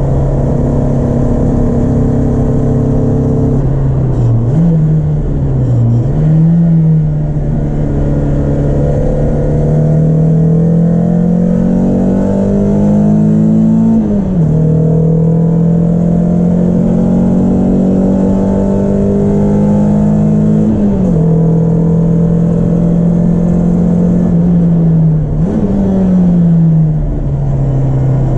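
Peugeot 306 S16's 2.0-litre 16-valve four-cylinder engine at high revs on track. Long pulls rise slowly in pitch and are cut by sudden drops in revs at gear changes, about 14 and 21 seconds in. There are quick up-and-down swings in revs about five seconds in and again near the end.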